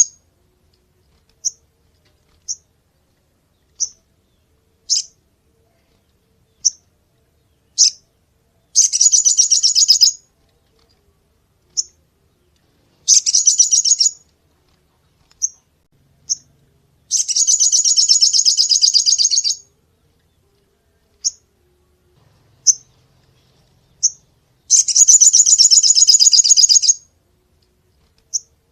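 A sogon songbird singing: single sharp, high chirps spaced about a second apart, broken four times by loud, rapid high-pitched trills lasting one to two and a half seconds each.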